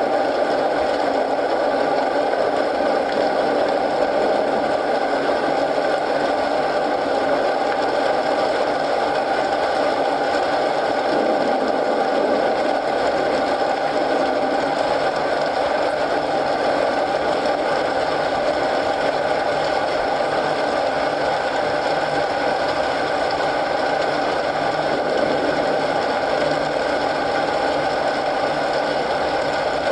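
Steady rain and fireplace ambience: an even, unbroken hiss.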